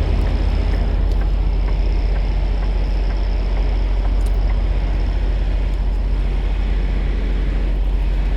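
Semi truck's diesel engine running at a steady idle, a deep even rumble, with a faint steady high whine over it.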